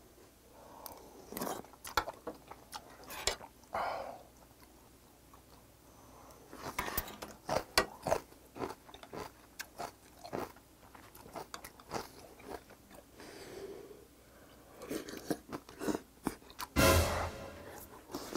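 Close-up eating sounds of a man chewing hot pheasant porridge and meat: wet mouth clicks and smacks, scattered through. Near the end comes a loud huff of breath as he blows out against food that is too hot.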